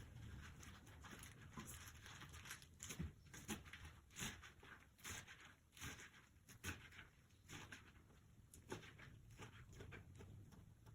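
Faint, irregular light taps and clicks over near silence, the small handling noises of kitchen work.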